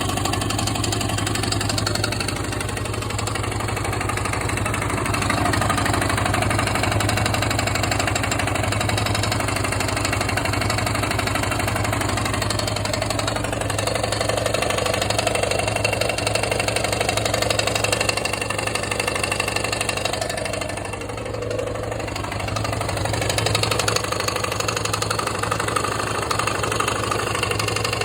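Yamaha XT/TT600 air-cooled single-cylinder four-stroke engine running at idle, with a mechanical engine noise that a new piston and a renewed Nutenstein have not cured; the source is still unknown to the owner.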